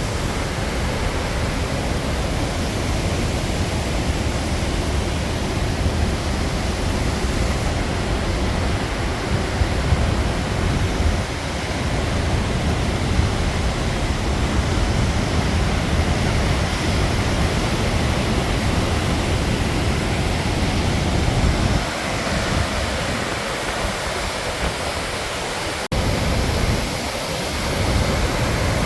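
Krimml Waterfalls, a large waterfall, giving a loud, steady rush of falling water with a deep rumble underneath. The rumble drops away for a few seconds in the last third, and there is a short break near the end.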